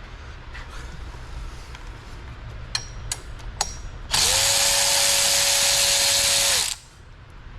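A few sharp clicks of tools, then a power tool runs for about two and a half seconds, spinning up to a steady high whine with a loud hiss and winding down as it stops.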